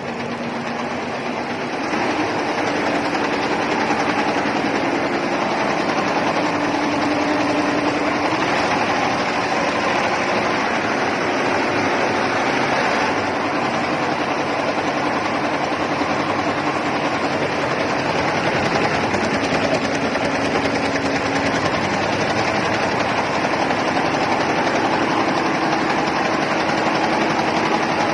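Computerized embroidery machine running, its needles stitching rapidly in a steady mechanical clatter that picks up about two seconds in.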